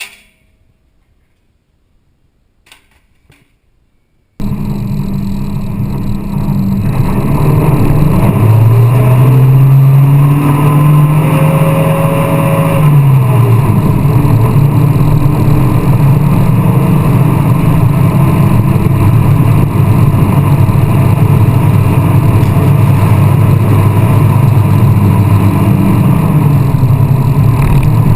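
Volvo car engine running hard under acceleration, its pitch rising and falling as it revs up and eases off. It starts abruptly about four seconds in, after a few faint clicks.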